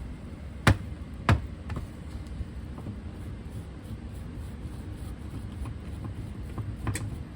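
Sharp knocks as a freshly poured copper casting is knocked out of its mold: two loud knocks about half a second apart near the start, a few faint taps, and one more knock near the end, over a steady low rumble.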